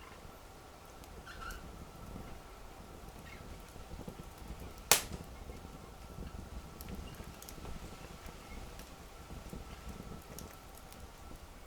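Wood fire burning with a low steady rumble and scattered faint crackles, and one loud sharp pop from the wood about five seconds in.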